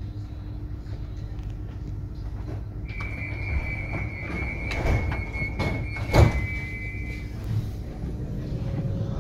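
Interior running noise of a Litra SA S-train electric multiple unit: a steady low rumble of wheels on track. About three seconds in, a steady high squeal starts and lasts about four seconds, with two sharp knocks. Near the end a tone rises in pitch as the train runs alongside a station platform.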